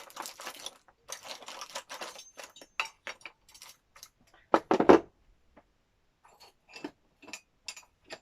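Rummaging through craft supplies for a paintbrush: rustling and a run of clinks and knocks as small hard items are moved about, with one louder knock about four and a half seconds in.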